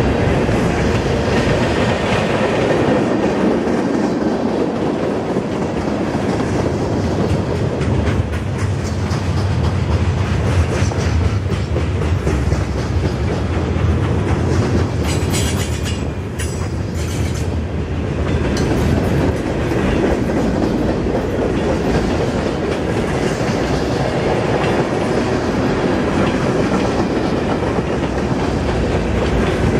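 Freight cars of a moving train rolling past close by, a steady rumble with wheels clacking over the rail joints. A spell of sharper metallic clicks comes about halfway through.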